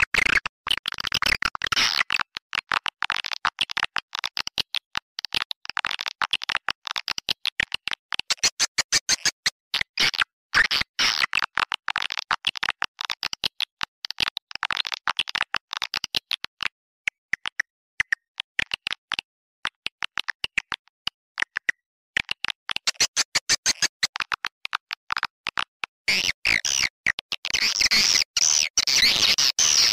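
Swiftlet lure-call recording of the kind played from swiftlet houses to draw edible-nest swiftlets: rapid twittering chirps and clicks in quick bursts with short gaps. It thins out in the middle and grows dense again near the end.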